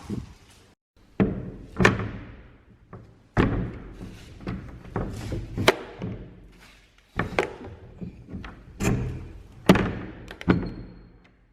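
A series of about ten heavy thumps and knocks at irregular intervals, with a low steady hum between them.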